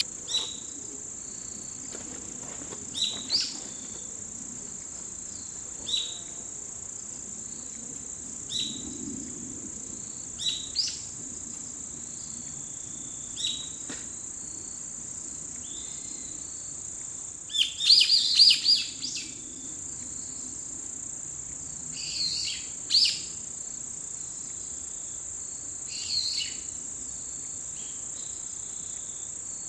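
Wild birds calling in short, sharp notes every couple of seconds, with a busier flurry of calls about two-thirds of the way through, over a steady high-pitched drone of autumn insects.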